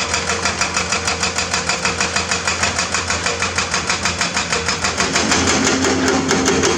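Excavator diesel engine running with a steady rapid pulse, about seven beats a second. About five seconds in it grows louder, with a steady hum added as the engine takes up load.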